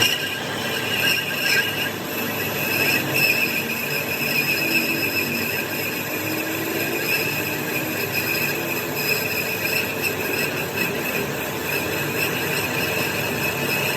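Steady, high-pitched metallic squeal from metalworking machinery, a wavering whine over even machine noise.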